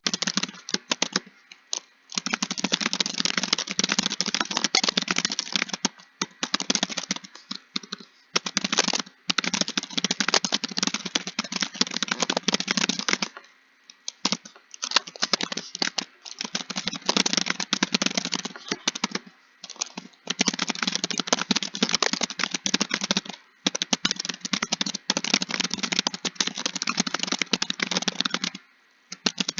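Computer keyboard typing: fast runs of key clicks broken by brief pauses every few seconds.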